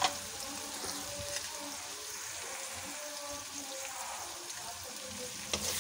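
Tomatoes and ground spices frying in hot oil in an aluminium karahi, a steady sizzle, with one sharp knock near the end.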